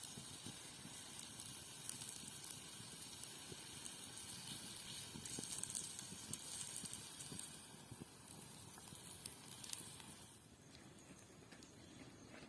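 Steady sizzling hiss with scattered crackles from food cooking over an open fire; it drops quieter about ten seconds in.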